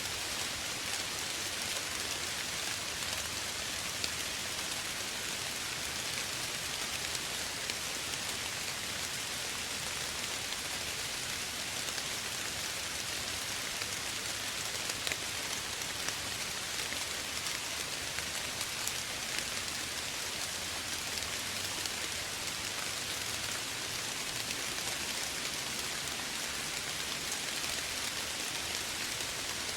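Steady soft rain falling, an even hiss with the ticks of scattered single drops.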